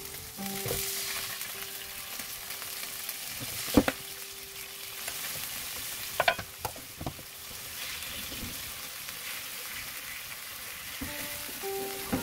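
Tofu frying in oil in a nonstick pan, sizzling steadily as soy-sauce seasoning is added and stirred in with a spatula. A few sharp knocks come about four and six seconds in.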